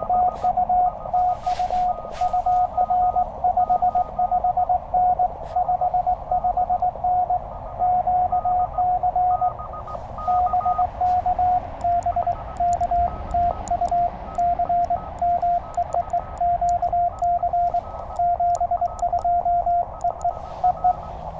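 Morse code from a Penntek TR-35 QRP transceiver: one steady mid-pitched tone keyed on and off in dots and dashes during a contact exchange. The tone's pitch drops slightly about twelve seconds in.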